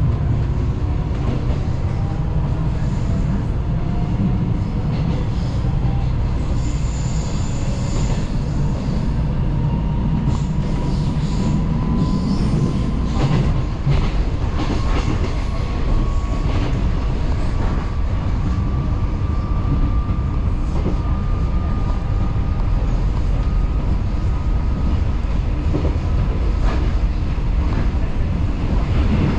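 Taiwan Railways local train running on the track: a steady low rumble with a few scattered clacks from the wheels, and a thin motor whine rising slowly in pitch.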